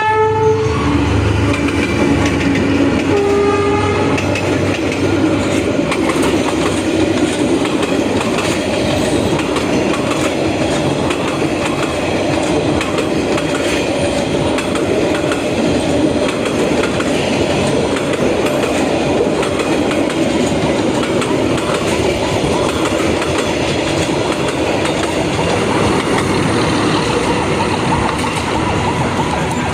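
Passenger train hauled by a D19E diesel-electric locomotive. A horn sounds in the first few seconds, then the train runs on with a steady rumble and the clickety-clack of wheels over the rail joints.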